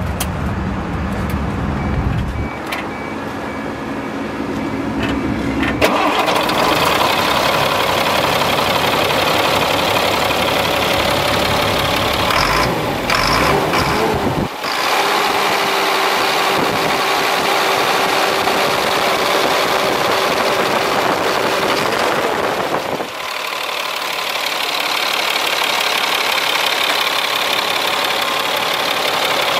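2000 Chevrolet C7500 ladder truck's engine starting and running. Its sound changes several times, growing fuller and brighter about six seconds in, then shifting again about halfway through and near the end.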